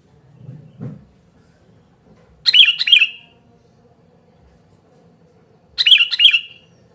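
Sooty-headed bulbul calling: two short, loud phrases of quick notes, about three seconds apart. There is a faint low thump about a second in.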